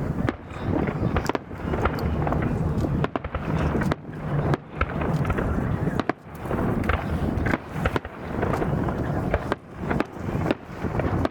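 Aerial fireworks going off in a steady run, a new bang every second or two, each followed by a rumble with crackles.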